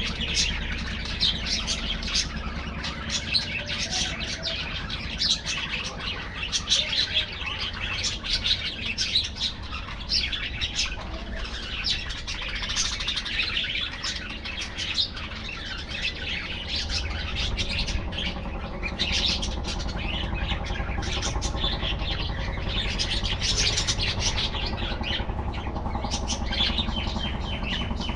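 A flock of budgerigars chattering: many overlapping short chirps and warbles without a break, over a steady low hum.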